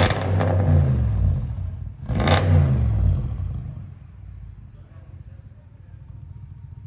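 2017 Audi S6's twin-turbo V8 with its mid-muffler and resonator deleted, free-revved twice about two seconds apart. Each rev snaps up sharply and falls back, and then the engine settles to a steady idle.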